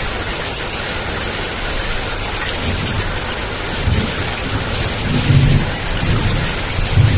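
Heavy rain pouring steadily. A low thunder rumble builds from about a third of the way in and swells in waves toward the end.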